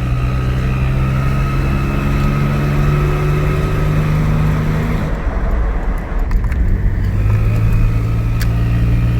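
Supercharged VG33 V6 of a 2002 Nissan Xterra running, with a steady high-pitched whistle over the engine note. The sound thins out briefly about five seconds in, then returns. The whistle comes from a small exhaust leak at a rust-damaged flange under the driver's seat.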